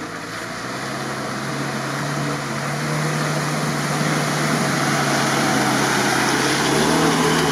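GAZ-69 engine running at a steady, even note as the jeep wades through a flooded, muddy rut, growing steadily louder as it approaches.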